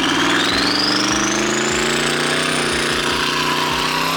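Twin-turbo 5.3-litre LS V8 in a Fox-body Mustang accelerating under a long pull. A turbo whine rises steadily in pitch throughout, over a slowly climbing, choppy engine note.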